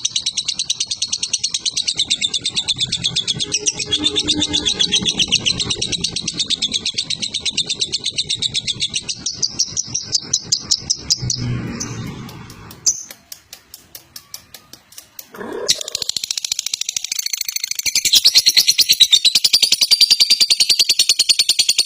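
Lovebird calling in a fast, unbroken run of shrill, high chirps. The calls go fainter briefly about two-thirds of the way through, then come back louder near the end.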